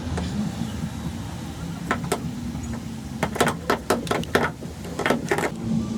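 A steady low mechanical hum with a run of sharp clicks and knocks, mostly between about two and five and a half seconds in.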